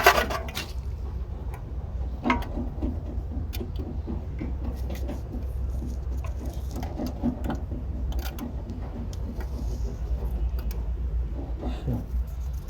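Scattered light clicks and scrapes of metal parts being handled, over a steady low hum.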